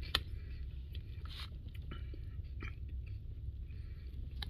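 A person chewing a mouthful of food, with a few small mouth and utensil ticks and one sharp click just after the start, over a steady low hum.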